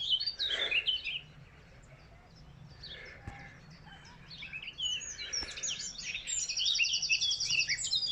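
Several small songbirds chirping and twittering. The calling thins out early on, grows busier about halfway through, and ends with a fast, even trill of about ten notes a second.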